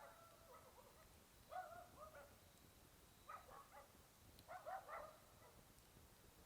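A dog barking faintly, in short bouts of a few barks each, coming roughly every one and a half seconds.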